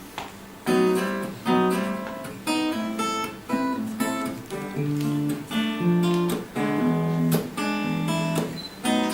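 Acoustic guitar playing a chord introduction. It starts just under a second in, and the chords are struck about twice a second.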